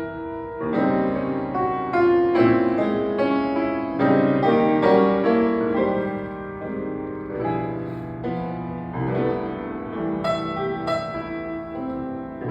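Piano playing chords with a melody on top, notes changing every half second or so.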